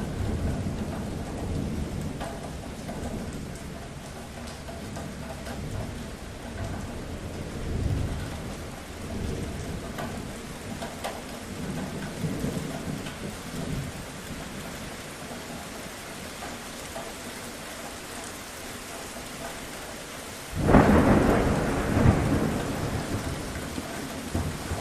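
Steady rain with rolling thunder: a low rumble swells about eight seconds in, and about twenty seconds in a sudden loud thunderclap breaks and rumbles away.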